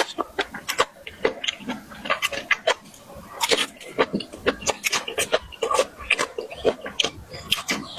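Close-miked eating: chewing and mouth smacks heard as a quick, irregular run of clicks, several a second.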